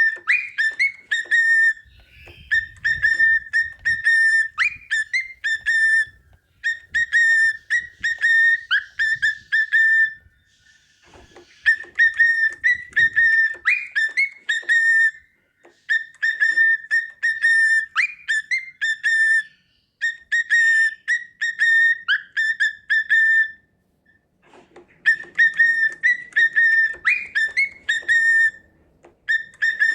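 Cockatiel whistling its song, a short clear whistled phrase repeated over and over with brief pauses between.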